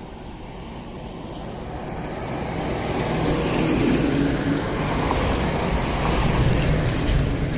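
Highway traffic: a vehicle approaching and passing, its tyre and engine noise swelling over about four seconds and then staying loud.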